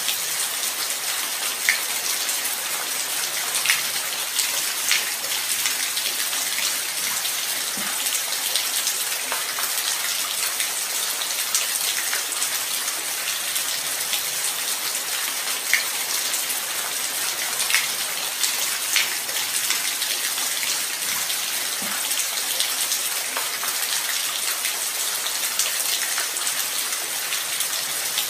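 Light rain falling steadily: an even hiss with scattered single drops ticking sharply now and then.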